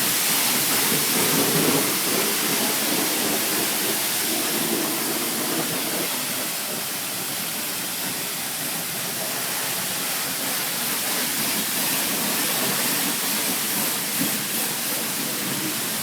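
Car wash pressure-washer wand spraying water, a steady hiss.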